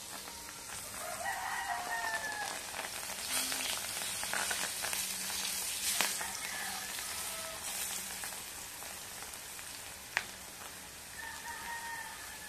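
Battered kangkong (water spinach) deep-frying in oil in a wok, a steady sizzle. A rooster crows three times in the background: about a second in, around six and a half seconds in, and near the end. Metal tongs click sharply against the wok twice, around six and ten seconds in.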